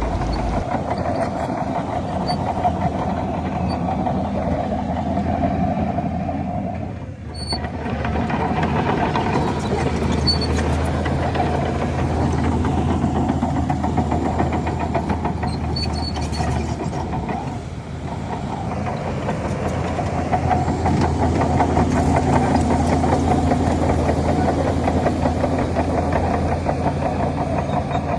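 Heavy diesel earthmoving machinery running with a steady engine drone that shifts with load. The sound dips briefly about seven seconds in and again around eighteen seconds, then grows louder over the last third.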